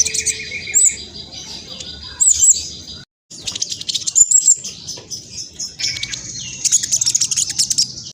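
Black sunbird ('trotol' form) singing a fast, high-pitched, chattering song of rapid twitters and short whistled notes, with a brief break a little after three seconds.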